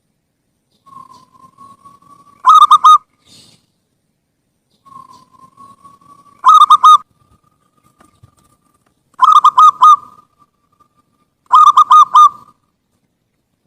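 Zebra dove (perkutut) singing its cooing song: four phrases, most opening with a soft drawn-out note that rises slightly, then a loud quick run of three or four coos.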